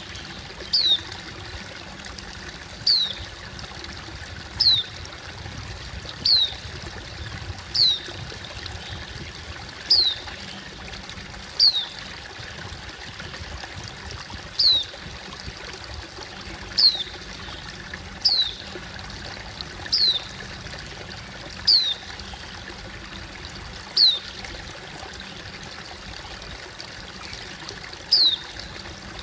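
Wild white-eye (pleci) calling: a thin, high note that slides downward, repeated every one and a half to two seconds, with a longer pause near the end. Behind it runs a steady sound of flowing water.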